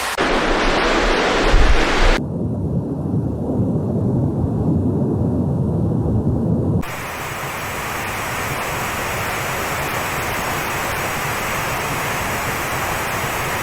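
Steady rushing noise of floodwater and heavy rain, with a deep rumble in the first two seconds. The sound changes abruptly about two seconds in, to a duller rush, and again near seven seconds, to an even hiss.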